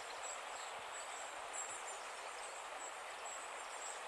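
Quiet riverside ambience: a soft steady hiss with a faint, high-pitched chirping that repeats in short runs.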